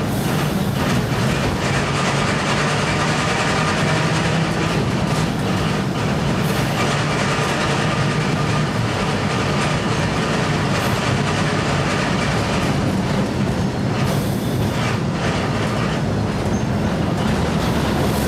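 A train running along the track, a loud steady rumble with a low hum underneath and occasional clicks of wheels over the rails.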